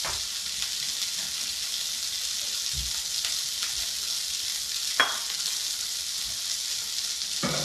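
Shrimp frying in olive oil in a hot skillet: a steady, hissing sizzle. About five seconds in, a sharp clink as a ceramic plate is set down on the counter.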